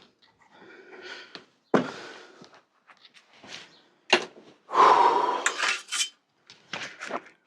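Bicycle parts and hand tools being handled on a workbench: a string of separate clinks, knocks and scrapes, with the loudest, longest scraping clatter about five seconds in.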